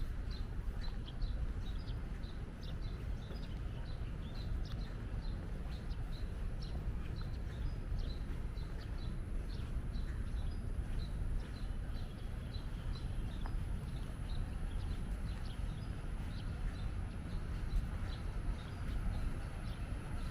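A bird calling with short, high chirps, about two a second, over an outdoor low rumble.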